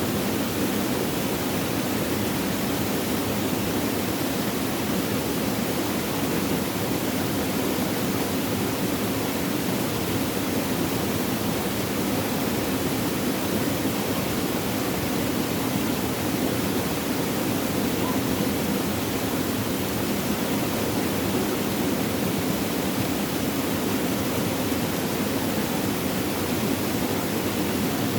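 Flowing, babbling water making a steady, unbroken rushing sound.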